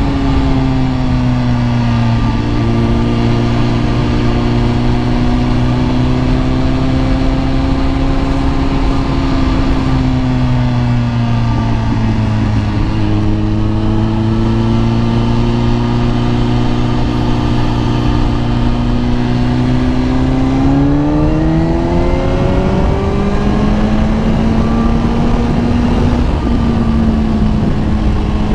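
Kawasaki ZX-10R's inline-four engine running at steady riding revs with slow rises and dips in pitch, over wind noise. About two-thirds of the way through, the revs climb for a couple of seconds and then settle back to a steady note.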